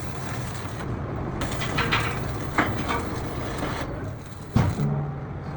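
Workshop noise: a steady low machine hum under a noisy background, with a few sharp knocks, the loudest about four and a half seconds in.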